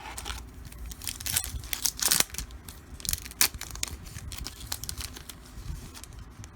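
Foil trading-card pack wrapper crinkling and tearing as it is opened by hand: a run of irregular crackles and rustles, loudest about two seconds in.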